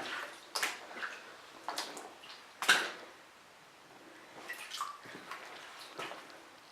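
Footsteps in wellington boots splashing through shallow water and mud: several uneven steps, the loudest about two and a half seconds in.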